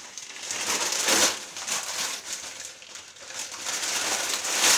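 Sheets of paper being crumpled by hand as kindling for a fireplace: rustling and crinkling, in a bout about a second in and another near the end.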